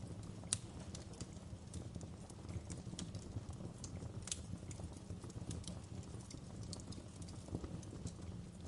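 Wood fire crackling in a fireplace: irregular sharp pops and snaps over a low steady rumble of the flames, with louder pops about half a second in and about four seconds in.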